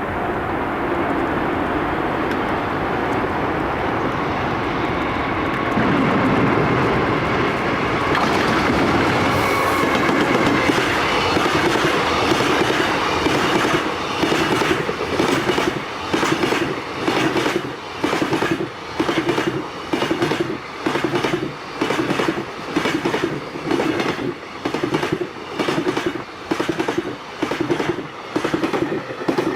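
Freight train passing close by. Its running noise builds for the first dozen seconds or so, then turns into a steady clickety-clack of wagon wheels hitting rail joints, about one double-beat a second.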